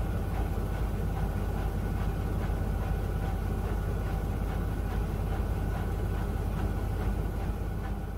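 Miele W1 front-loading washing machine running, with a steady low hum and faint even pulses a few times a second.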